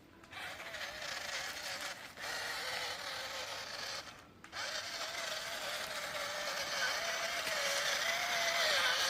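Remote-control toy tractor's small electric drive motor and gears whining as it drives, the pitch wavering. It cuts out briefly about two seconds in and again around four seconds, then runs on, growing louder near the end.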